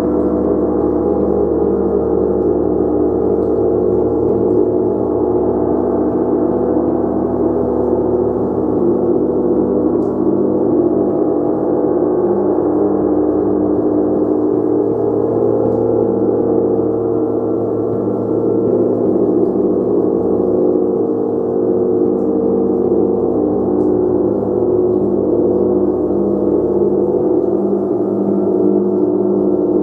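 A gong kept in a continuous, steady wash of ringing, many overlapping tones sustained at an even loudness without distinct separate strikes.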